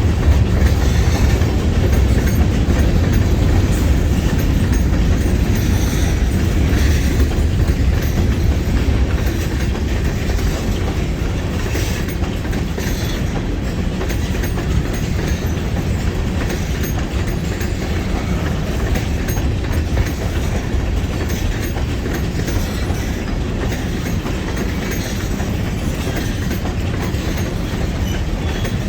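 Freight cars of a long train rolling past on the rails: a steady rumble with wheels clicking over the rail joints, heavier over the first several seconds, then settling to an even roll.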